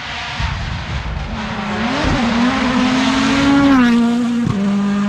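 Rally1 hybrid rally car's turbocharged four-cylinder engine at high revs as the car comes flat out. The engine note climbs and holds, then drops in two steps near the end.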